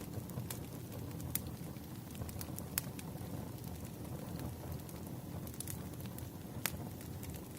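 Campfire burning: a steady low rush of flames with scattered sharp crackles and pops, the loudest snaps about a second and a half in, near three seconds, and near the end.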